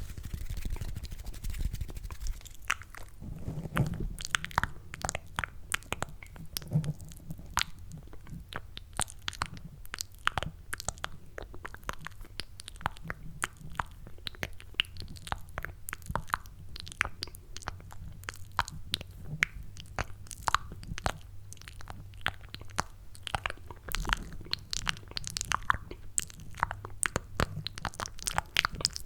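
Cupped-hand ASMR mouth sounds close to the microphone: quick, wet, sticky clicks and smacks, many a second, made to sound like eating mac and cheese. A low steady hum lies beneath.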